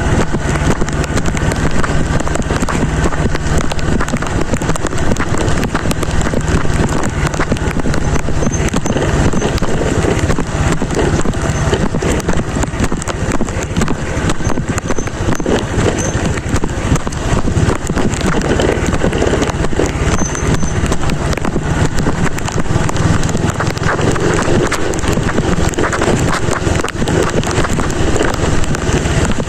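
Motorcycle on the move in rain: steady wind and road noise on the rider's microphone, with the engine humming underneath.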